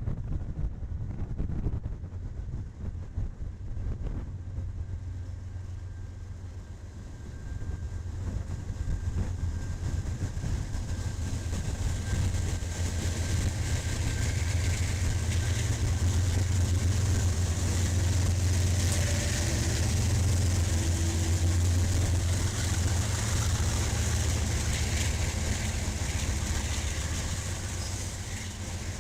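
Diesel locomotive of a passing train running with a steady low rumble that builds up over the first stretch, is loudest in the middle, then eases slightly near the end.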